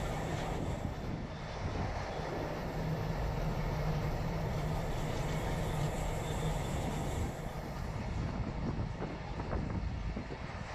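Container freight train rolling past at close range: the steady rumble and rattle of its flat wagons' wheels on the rails, with a few sharp clicks near the end.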